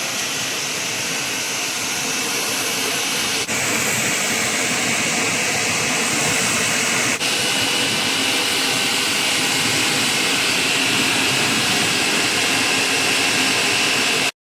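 Car-wash machinery running with a steady rushing hiss and a faint high whine, broken by two brief cuts.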